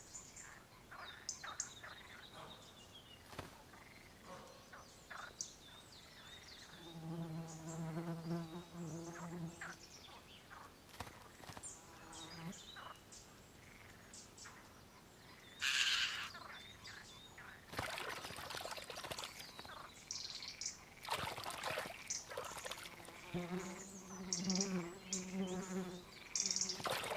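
Small forest birds bathing in a shallow spring: bursts of wing-flapping and splashing water, with short high chirps and calls. An insect buzzes past twice, as a steady low hum.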